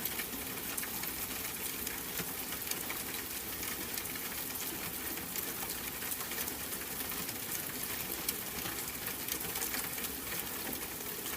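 Steady rain, an even hiss with a constant fine patter of drops.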